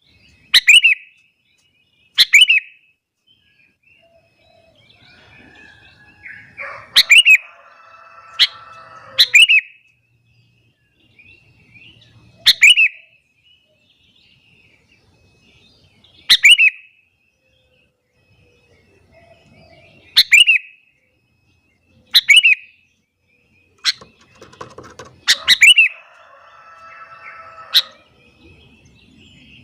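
Sooty-headed bulbul calling: loud, sharp chirps every few seconds, each a quick falling whistle, with two longer, lower chattering phrases, one about a quarter of the way through and one near the end.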